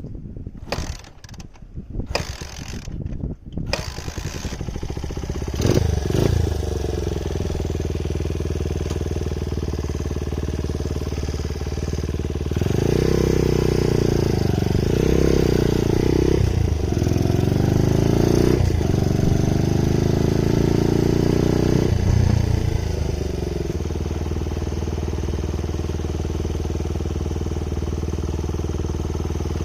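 Honda Ape 50's single-cylinder four-stroke engine starting after a few seconds of mechanical knocks, then idling. It is revved up and down several times in the middle before settling back to a steady idle. This is the bike's first start after a year standing unused.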